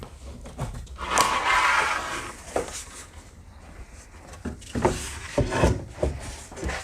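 Cedar tongue-and-groove boards being handled: a scrape of wood on wood lasting about a second, then a string of sharp wooden knocks.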